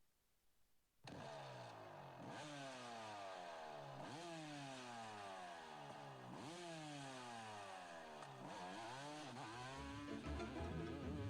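125cc two-stroke motocross bike engine running hard. Its pitch slides down over about two seconds and then snaps back up, about four times over. Music comes in near the end.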